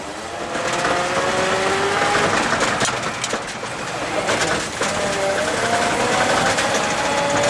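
1981 GMC C7000 all-wheel-drive dump truck pulling away under load, its engine and driveline whine climbing in pitch as it gathers speed, over a steady rushing noise. A few sharp clanks come through, the loudest about three seconds in.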